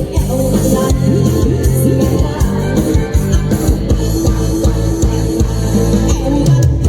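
Live band playing rock music, with guitar, a drum kit and singing.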